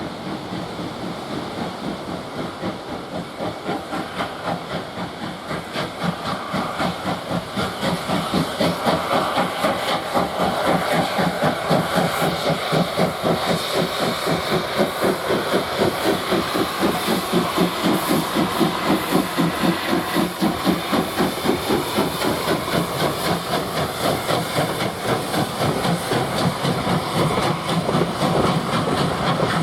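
Steam locomotive running, its exhaust chuffing in an even, regular rhythm that grows louder over the first ten seconds or so and then holds steady.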